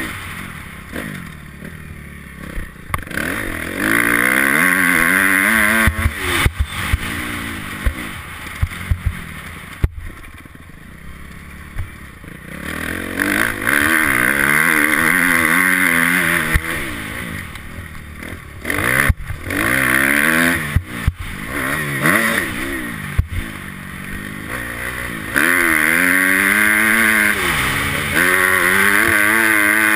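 Motocross bike engine heard from the rider's helmet camera, revving hard up through the gears and dropping off again several times on the throttle, with quieter stretches of coasting. A few sharp knocks are heard over the engine.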